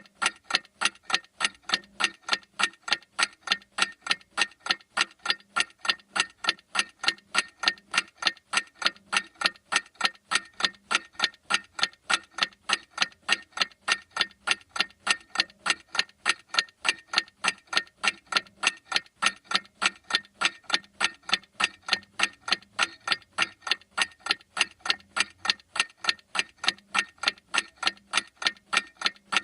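Clock ticking steadily, even sharp ticks at about two a second.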